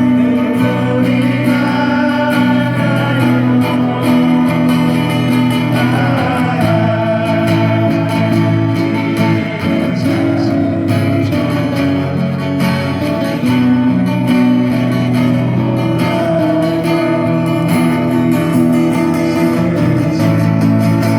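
Acoustic guitars playing a slow song with a voice singing over them.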